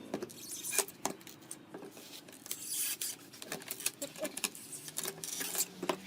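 Irregular light clicks, knocks and short scrapes of hands handling small wooden parts and tools at a workbench, with a longer rustling scrape about two and a half seconds in and another near the end.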